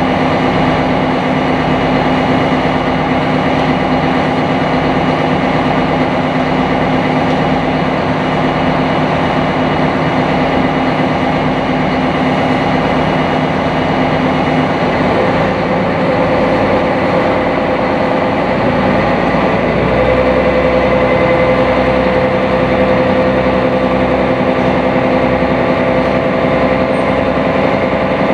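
Sightseeing boat's engine running steadily, a constant mechanical drone with several steady tones. About halfway through the pitch of the drone shifts, and a few seconds later a deeper rumble grows stronger, as the engine speed changes.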